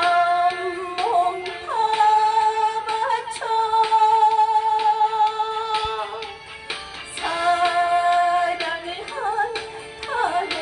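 Female voice singing a Korean trot song over a backing band, holding long notes that swoop into pitch.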